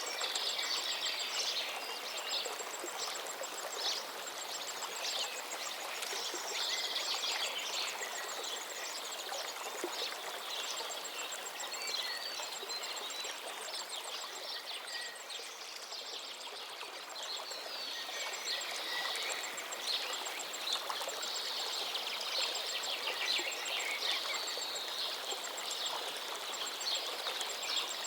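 A river running steadily, with many small birds chirping and trilling over it, and one bird repeating a fast, even, high tick for much of the time.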